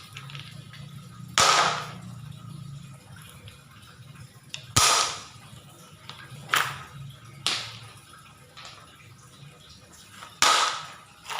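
Stones clattering against a plastic toy dump truck, five sharp clatters spaced a few seconds apart, each fading quickly.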